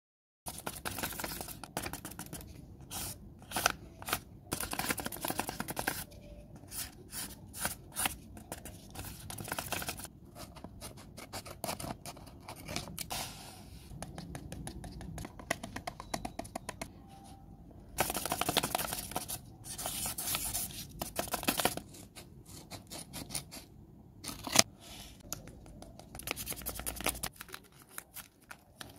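Taped paper being handled and squeezed close to the microphone: a handmade paper squishy crinkling, rustling and scraping, with many sharp clicks and a few louder stretches of rustling. It starts about half a second in.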